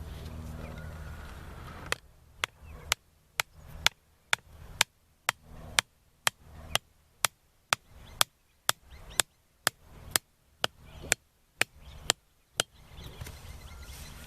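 Wood being chopped: a run of about twenty sharp, evenly spaced strikes, roughly two a second, starting about two seconds in and stopping shortly before the end.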